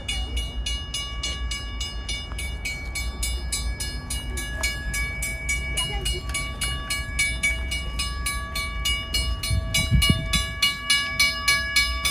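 Railroad noise from an adjacent rail yard: a steady low rumble with rapid, very even clicking, about four or five clicks a second, over several steady ringing tones. There is a low thump about ten seconds in.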